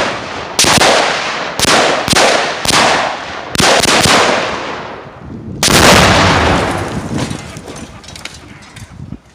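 Rifle shots, about seven sharp reports in the first four seconds, then the loudest blast of all a little past halfway: 8 pounds of tannerite detonating inside a safe under a water heater, its rolling echo fading over about three seconds.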